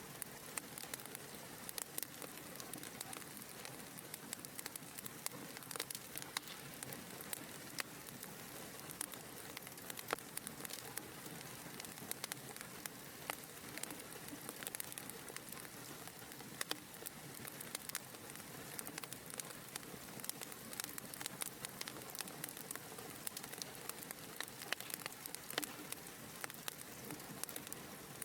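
Wood fire in a fireplace crackling: a steady hiss with frequent, irregular sharp pops and snaps.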